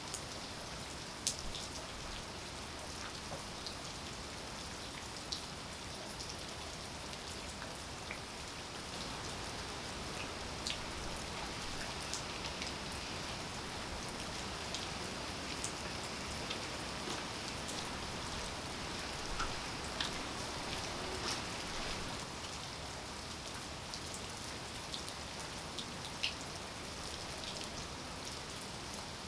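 Steady rain falling, with scattered single drops landing close by as sharp ticks.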